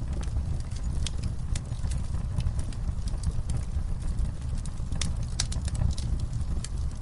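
Campfire burning: a steady low rumble of flames with irregular sharp crackles and pops from the burning wood, a quick cluster of them about five seconds in.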